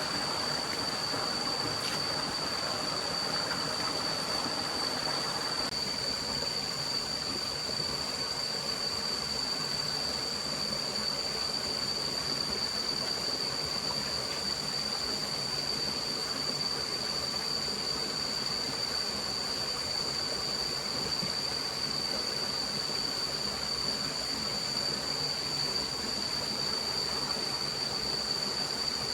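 Steady rushing water of a forest stream, with a constant high-pitched whine over it; a brighter hiss in the first five seconds or so cuts off suddenly.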